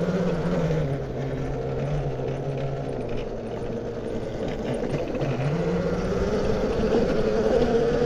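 Yozma IN 10 Pro electric dirt bike's motor whining under load on a hill climb over a steady rush of noise. Its pitch drops about a second in, then rises again after about five seconds.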